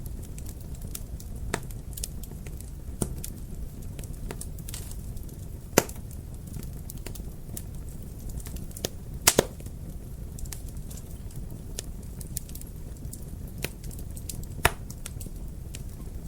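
Wood fire burning in a fireplace: a steady low rumble of flames with irregular crackles, and a few louder sharp pops, the biggest a little under halfway in and about two thirds of the way through.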